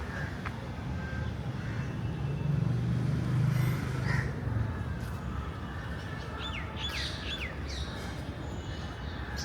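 Residential street ambience: a vehicle passes with a low rumble that swells about two to four seconds in, and birds chirp several times in quick succession around seven seconds in.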